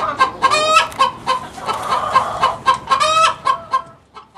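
Hen clucking rapidly, about four short clucks a second, broken by two longer drawn-out squawks about half a second and three seconds in; the clucking dies away near the end.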